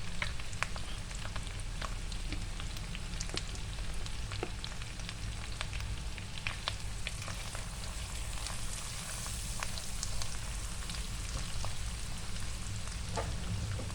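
Spice paste of onion, chili padi and lemongrass frying in hot oil with turmeric just stirred in: a steady sizzle with scattered small pops and crackles.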